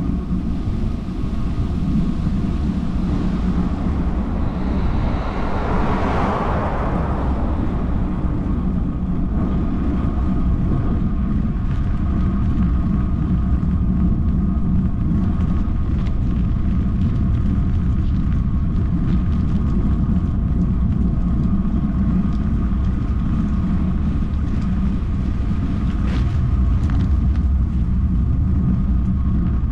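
Motorcycle engine running steadily at cruise with a constant low rumble and drone. A brief rushing swell rises and fades about six seconds in.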